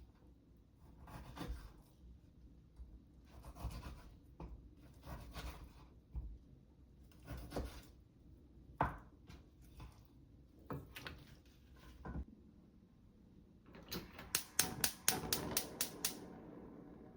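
Kitchen handling and food-prep noises: separate scraping and rubbing strokes every second or so, then a quick run of about a dozen sharp strokes near the end.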